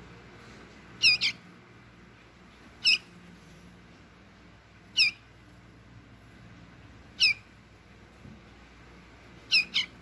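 A fifteen-day-old wild bird nestling calling: short high-pitched squawks about every two seconds, the first and last given as quick pairs.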